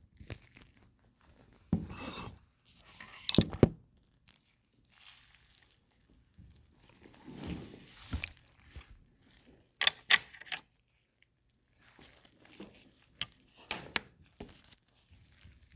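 Intermittent handling noises from working on a preserved cat specimen: gloved fingers rubbing and pulling at tissue, with scattered sharp clicks and scrapes.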